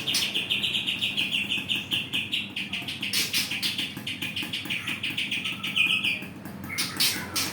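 A songbird singing a fast, even trill of repeated chirps, about eight notes a second, held for about six seconds before it stops near the end. A few louder sharp sounds cut across it.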